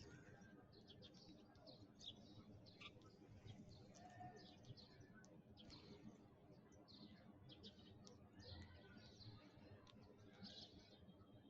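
Sparrows chirping, many quick overlapping chirps going on continuously, faint over a low background hum.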